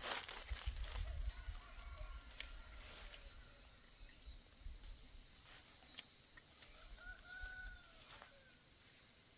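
A rooster crowing twice, faintly, over a steady high insect drone, with scattered knocks, the loudest right at the start.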